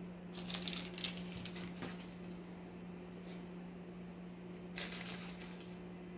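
Rustling, crinkling and light clicking from M&M's candies and their packet being handled, in two spells, the second about five seconds in. A steady low hum sits underneath.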